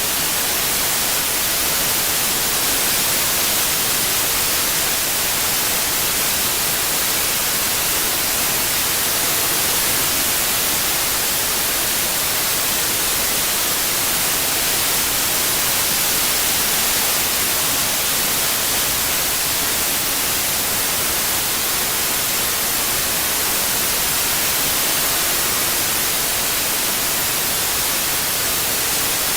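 Synthetic white noise: an even, steady hiss without tone or rhythm, weighted toward the high end, played as a tinnitus masking sound.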